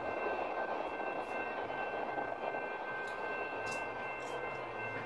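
Freight train rolling past a grade crossing as its tail end moves away, a steady rushing rumble, with several steady high tones that cut off suddenly near the end.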